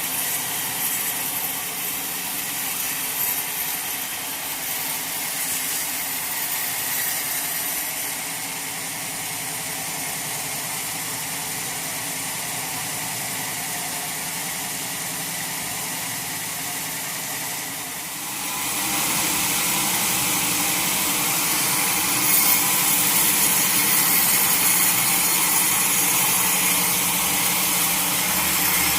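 Sawmill saw running steadily, then getting louder and brighter about two-thirds of the way in as it starts cutting into a mahogany log.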